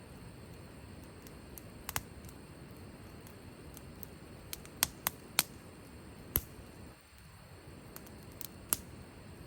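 Firewood burning in a campfire: a soft steady hiss under irregular sharp crackles and pops, several in quick succession around the middle.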